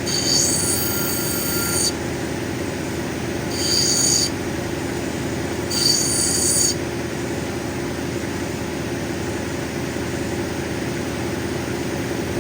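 Cabbing machine's motor running steadily while an opal is ground against its spinning 220 diamond wheel, giving three high-pitched squeals in the first seven seconds as the stone is pressed to the wheel.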